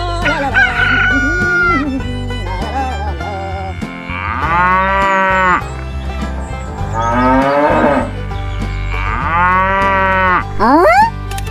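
A cow mooing three times, each a long call that rises and falls in pitch, over background music, with a short rising sound near the end.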